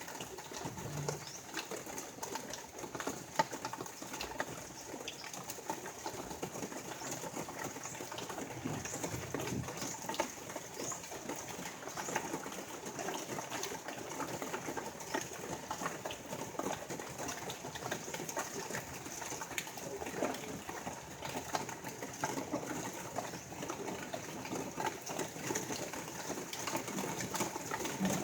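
Steady rain falling, with many small patters and faint short chirps high up now and then.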